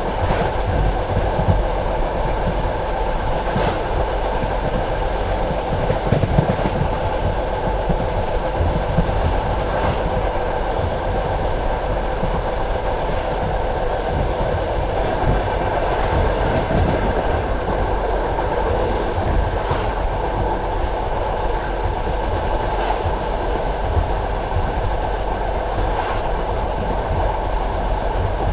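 Passenger train carriage running at speed, heard from inside at the window: a steady rumble of wheels on rail, with a faint wheel knock over a rail joint every few seconds.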